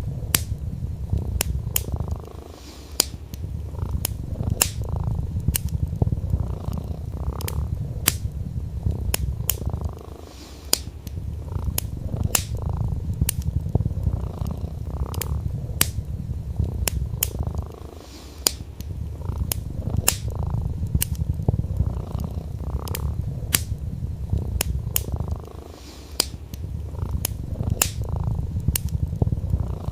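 A cat purring in a continuous low rumble that dips briefly about every eight seconds, mixed with the frequent sharp crackles and pops of a wood fire burning.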